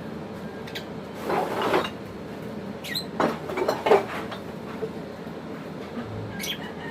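African lovebirds scratching and rustling in nesting material, in two short bursts, with a few brief high chirps, one dropping sharply in pitch.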